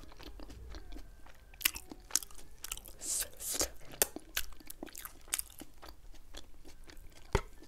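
Close-miked chewing of sauce-coated spicy fried chicken wings: wet mouth smacks and clicks with some crunching, and lips sucking sauce off fingers. A sharp click near the end.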